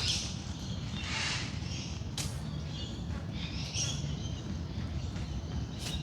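Wild birds calling in a dawn chorus: several high chirping calls and one harsh, scratchy call about a second in, with a couple of sharp clicks, over a low steady hum.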